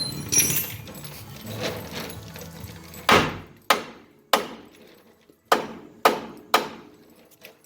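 Six hammer blows on steel, in two groups of three, each ringing briefly. They come after a few seconds of lighter scraping and clinking of tools.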